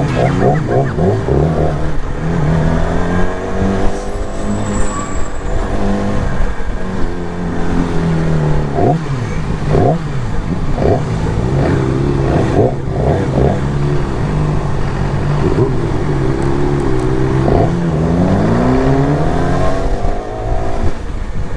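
Sport motorcycle engines running under way, revs rising and falling through gear changes, with short sharp bursts of sound in between.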